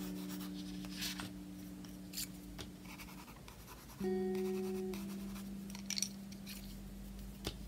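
Pencil scratching and shading on sketchbook paper in short strokes, over soft background music of long held notes, with a new chord coming in about four seconds in.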